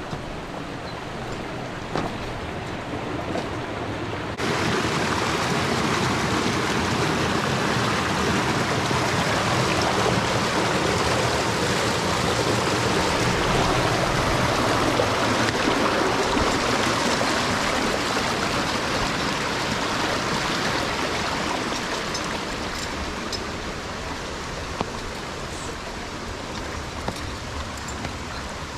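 Steady rush of running mountain-stream water. It gets suddenly louder about four seconds in and eases off gradually over the second half.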